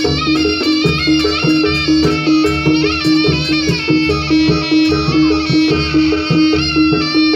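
Jaranan pegon music from East Java: a reedy wind melody with bending pitch over a steady, fast beat and heavy bass.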